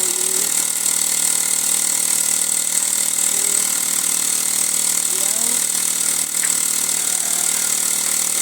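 Mamod SW1 toy steam wagon's small steam engine running fast under steam, a loud, steady hiss of escaping steam. Its cylinder runs smoothly now that the oil has been flushed out and water goes through it.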